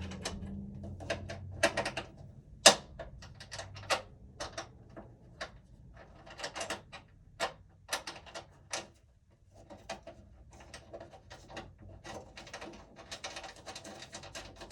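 Irregular metal clicks and taps from parts being handled inside an open steel breaker panel, with one sharp knock a few seconds in and a quick run of small clicks near the end.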